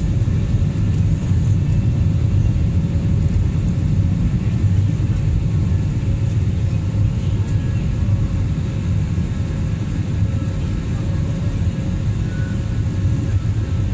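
Steady low rumble of an Airbus A320's engines and airflow heard inside the passenger cabin, with a faint steady hum over it.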